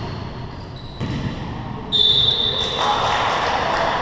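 Basketball game in a hall: a ball bouncing on the court and players' voices, with a thud about a second in and a sudden shrill, steady high tone just before the two-second mark that fades over the next second.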